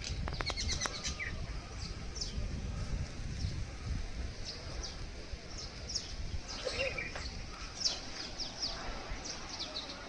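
Small birds chirping: many short, high chirps that drop in pitch, scattered irregularly throughout, over a steady low rumble.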